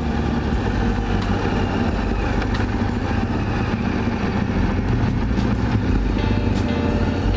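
KTM 1290 Super Adventure's V-twin engine with an Akrapovic exhaust, heard on board, pulling through hairpin bends. The throttle opens and closes, so the engine note shifts up and down.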